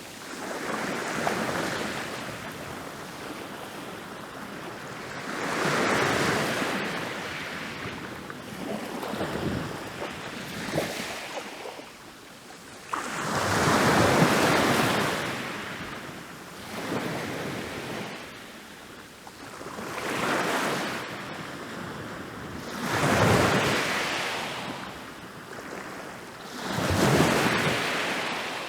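Ocean waves rolling in and breaking on a beach, each wave swelling into a rush of surf and washing out, about every three to four seconds.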